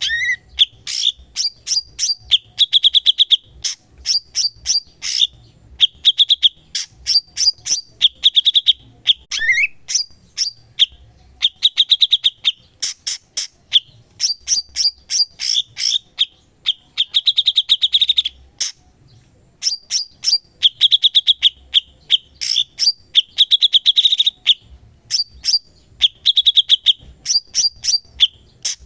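Cucak cungkok songbird singing continuously: quick chattering phrases of sharp, high notes alternating with short rattling trills, repeated with only brief pauses and one slightly longer gap a little past the middle.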